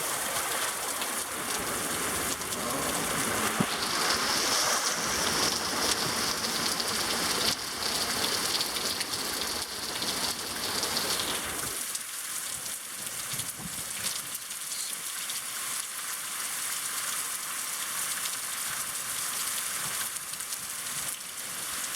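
Heavy thunderstorm rain pouring down, with many sharp drop hits through it. The deeper, rushing part of the sound drops away about halfway through, leaving a thinner hiss of rain.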